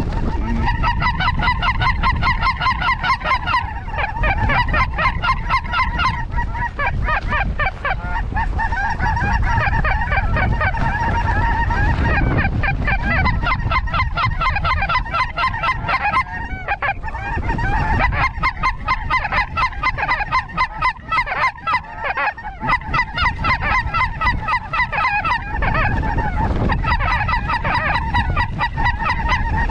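Snow geese calling: a dense, continuous chorus of rapid high honks with brief lulls, over wind rumbling on the microphone.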